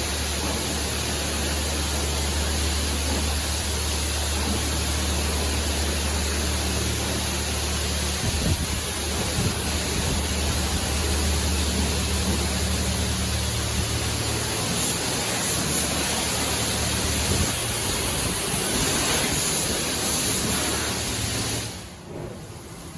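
PDQ LaserWash 360 touchless car wash spraying water onto a car with a steady hiss over a low pump hum; near the end the spray and hum cut off sharply and the sound drops much quieter.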